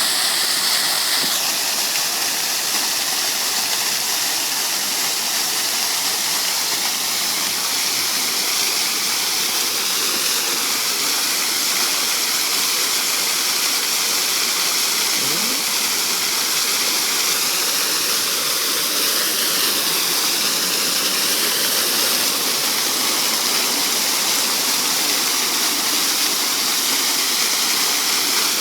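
Water fountain running, its falling water splashing in a steady, even rush.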